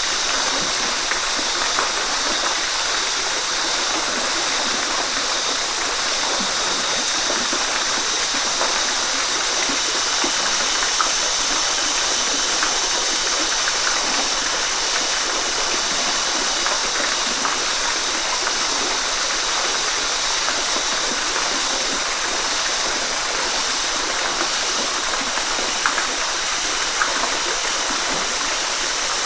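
Waterfall: water falling and splashing into a pool, a steady even rush with faint splashes and drips.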